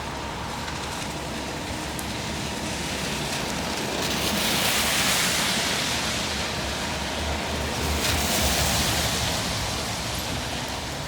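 Street traffic: two vehicles pass in turn, each a rising and fading hiss of tyres on the road, about four and eight seconds in.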